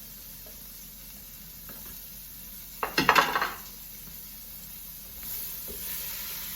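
Metal utensil clattering and scraping in a frying pan about three seconds in as chopped onion goes into hot melted butter, followed by a sizzle that grows louder near the end.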